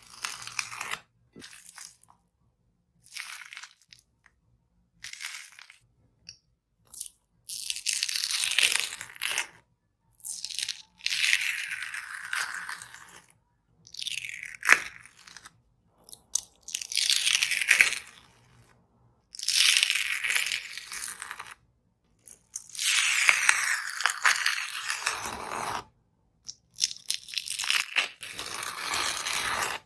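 Dried skin on slime being torn apart by hand: crackling hiss in a string of bursts, each lasting one to three seconds, with short pauses between them.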